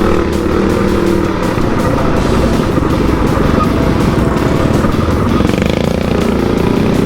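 Motorcycle engines running steadily, with music playing over them.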